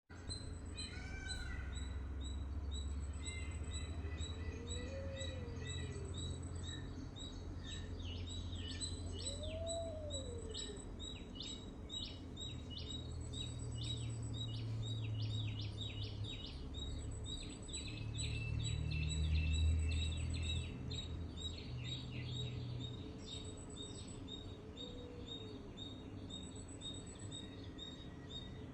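Several songbirds chirping: dense runs of short, quick high chirps, with a few slower rising-and-falling calls lower down, over a steady low rumble.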